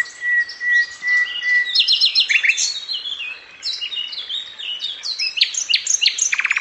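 Birds chirping and singing: many short rising and falling chirps, a steady whistled note in the first two seconds, and a fast trill near the end.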